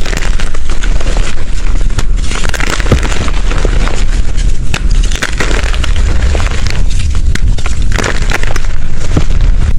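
Blocks of gym chalk being crushed and crumbled by hand: loud, dense crunching and crackling with many sharp snaps and a low rumble underneath.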